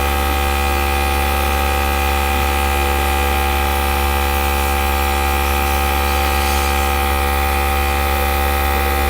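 Small electric air gun running steadily, a constant motor hum under an even hiss of blown air.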